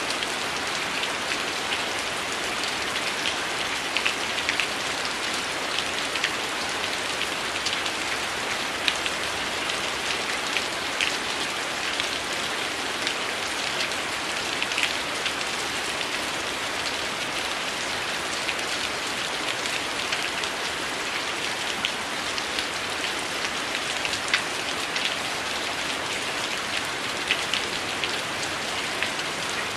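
Heavy rain falling steadily, with scattered sharp crackles and ticks over the hiss.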